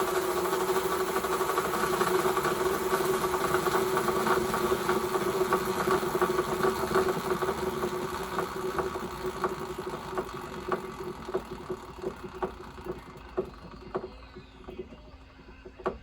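A K90 motorcycle's engine and transmission running at speed, then slowing down: a steady mechanical whine fades while a regular clicking gets slower and slower until it stops. This is a check of a transmission noise.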